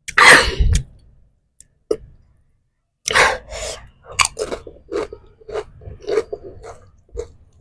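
A person chewing crunchy spicy chips close to the microphone: a loud burst right at the start, a pause, then a steady run of short crunching chews from about three seconds in.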